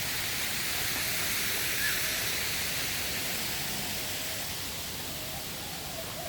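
Steady rushing hiss of falling water from an aviary waterfall, swelling slightly and then easing off. A bird coos faintly near the end.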